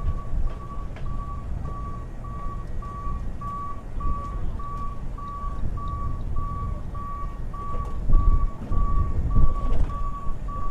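Warning beeper of a boat's hydraulic swim platform, a steady high beep repeating a little under twice a second while the platform moves, over a low rumble that gets louder near the end.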